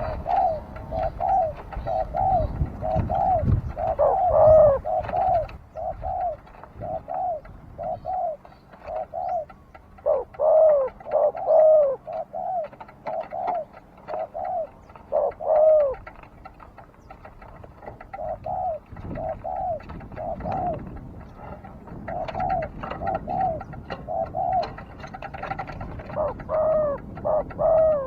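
Spotted dove cooing: repeated soft arching coo notes in phrases, with short pauses between them.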